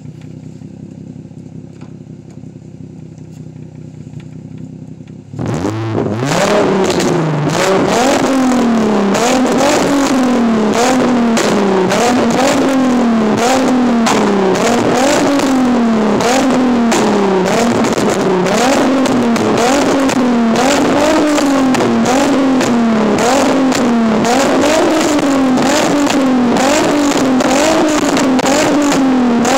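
Infiniti G35's 3.5-litre V6 through an ISR exhaust, idling steadily at first. About five seconds in it breaks into repeated free revs, the pitch climbing and dropping again roughly every second and a bit, with exhaust popping and crackling between the revs.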